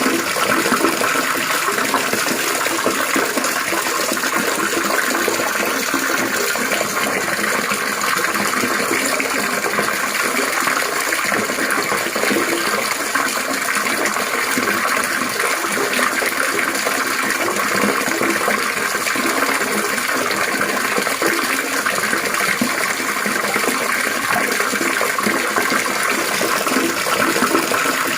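Trickling, splashing water running steadily, an even continuous gurgle with no breaks.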